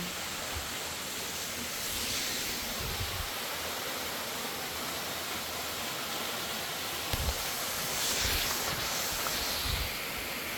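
Waterfall rushing: a steady, even roar of falling water, with a few low bumps on the microphone about seven to eight seconds in.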